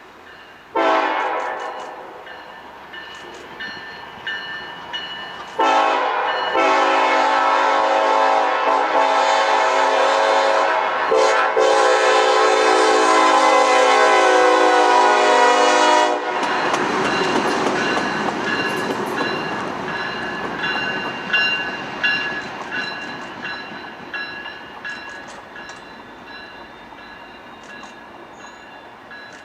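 Norfolk Southern locomotive air horn sounding a chord: a short blast about a second in, then long blasts run nearly together from about 6 to 16 seconds. Then the rumble and clatter of the passing train, which slowly fades.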